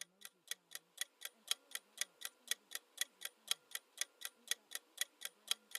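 Quiz countdown timer sound effect ticking steadily, about four ticks a second.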